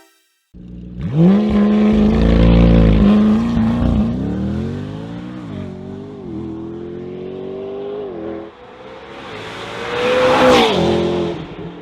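McLaren GT twin-turbo V8 with a Novitec sports exhaust, accelerating hard: the engine note climbs, holds and drops several times as it shifts gears, and is loudest near the end as the car goes by.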